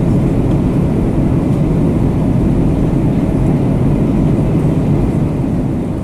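Steady rushing noise of a Boeing 737-800 in flight, heard inside the passenger cabin: airflow and the CFM56-7B engines making a low, even rush that eases slightly near the end.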